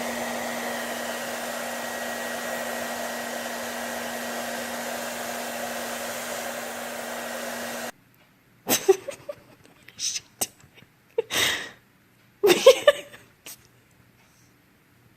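A steady electric whir with a low hum, like a small motor-driven appliance, that cuts off suddenly about eight seconds in. Then come about five short, sharp sounds with pauses between them.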